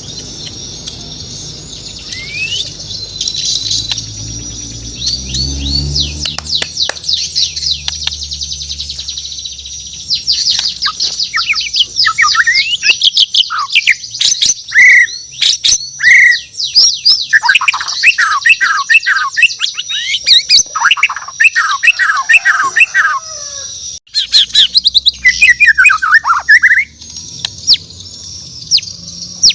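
A Bornean shama (murai batu) singing: fast runs of chirps, trills and sweeping whistles, sparse at first and then a loud, dense burst of song from about a third of the way in, with a brief gap near the end.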